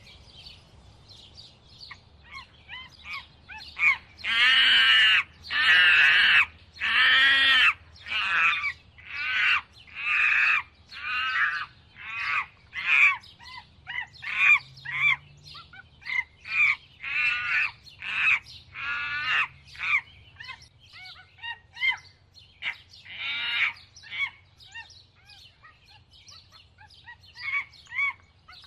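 A bird calling over and over in a long series of loud calls, each about half a second long and rising then falling in pitch, roughly one a second. The calls grow shorter and fainter after the first few, and small chirps follow near the end.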